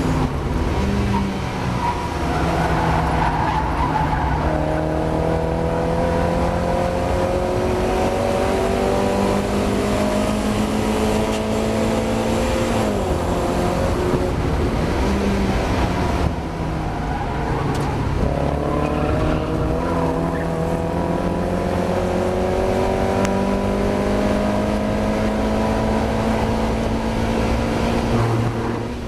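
Mazda MX-5 four-cylinder race car engine at racing speed, revs climbing steadily, falling back about halfway through, then climbing again in a long pull; the car was racing with an engine misfire.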